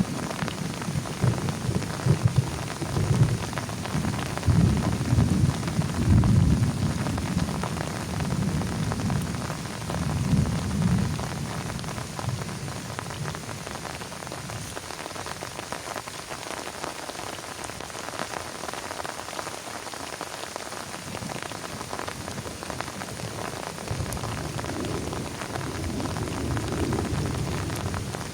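Heavy rain pattering steadily on a plastic tarp. Low rumbling swells through the first ten seconds or so and again near the end.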